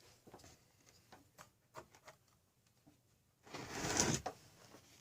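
Light clicks and taps of small engine parts being handled and fitted, with one brief sliding scrape about three and a half seconds in.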